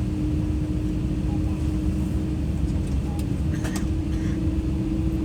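Airbus A320-200 cabin noise: a steady low rumble with a constant hum-like tone, with a couple of faint clicks in the middle.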